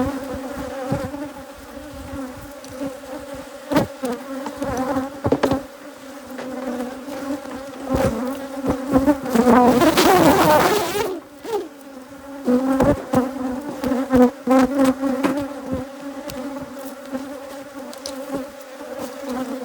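Honeybees from an opened Africanized hybrid hive buzzing steadily in a mass, with scattered knocks and a loud rushing noise lasting about a second and a half near the middle.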